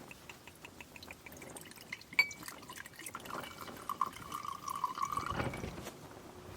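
Liquid dripping and then being poured into a vessel, with a steady ringing tone for about two seconds. A string of small ticks comes before it, and one sharp click about two seconds in.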